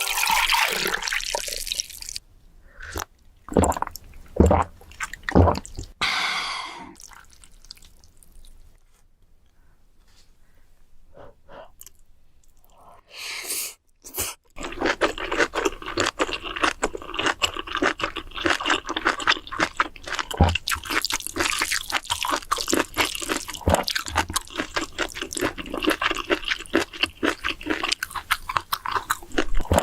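Close-miked eating sounds of noodles: wet clicks, smacks and chewing. They are sparse and quieter for the first half, then a dense run of slurping and chewing fills the second half.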